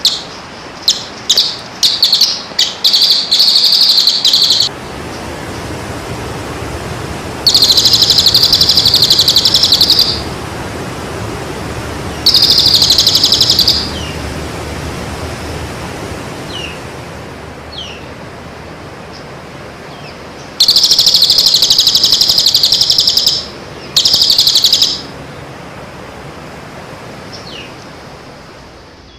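Songbird song in loud bursts of very rapid, high trilling, about five bursts of one to three seconds each, with a few faint short chirps between them over a steady hiss.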